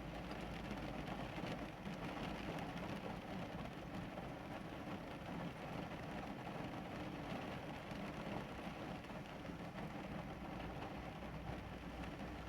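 Steady rain with a low, constant rumble underneath.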